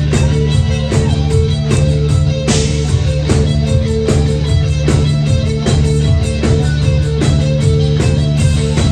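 A rock band playing live, amplified: electric guitar over bass and a steady drum beat, with a cymbal crash about two and a half seconds in.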